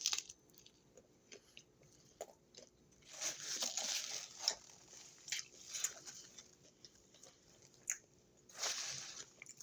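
A person chewing crunchy food close to the microphone, in irregular crisp bursts, with the loudest stretches about three seconds in and again near the end.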